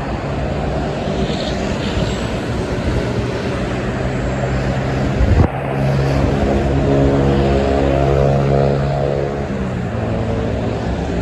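Highway traffic noise with trucks going by. A steady engine drone comes in and grows louder past the middle, and there is one sharp thump about five seconds in.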